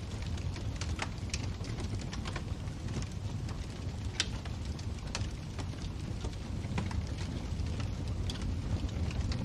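Wood fire burning in a fireplace, crackling with scattered sharp pops over a low, steady rumble.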